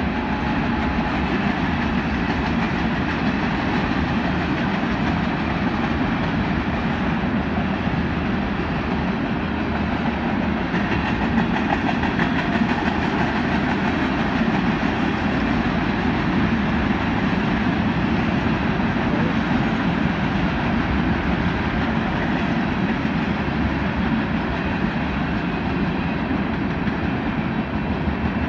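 Ethanol tank cars of a freight train rolling past, a steady rumble of steel wheels on the rails that holds even throughout.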